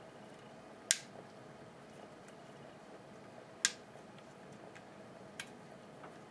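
Sharp clicks of small hard parts of a hedge trimmer being handled and fitted during reassembly: two loud ones about a second in and past the middle, a smaller one near the end, with a few faint ticks over a faint steady hum.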